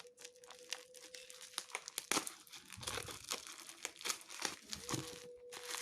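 Plastic packaging crinkling and crackling as it is handled and opened, in irregular bursts of clicks and rustles, over a faint steady hum.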